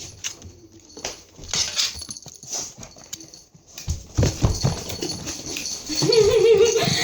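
A dog talking back with a long, wavering whine-howl that starts about a second before the end, after a run of scattered taps and knocks.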